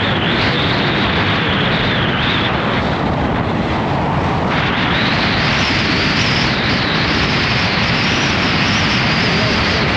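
Gale-force wind buffeting the microphone, a loud, steady rush of noise that eases slightly in the upper range for a second or so about three seconds in.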